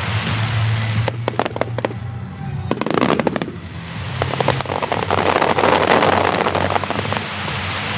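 Aerial fireworks bursting and crackling, many in quick succession, with a flurry of sharp reports about a second in and a dense crackle building through the second half. Music plays underneath.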